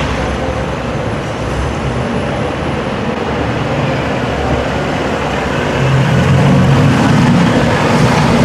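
Classic British cars' engines running as the cars drive slowly past one after another inside a concrete parking garage, a steady engine note that grows louder about six seconds in as a classic Mini passes close by.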